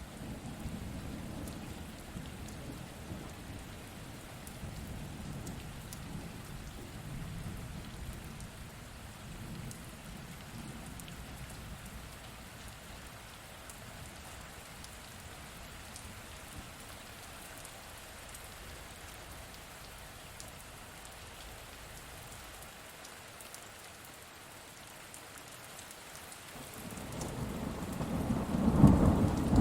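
Steady rain with thunder: a low rumble fading over the first several seconds, then a loud roll of thunder building near the end.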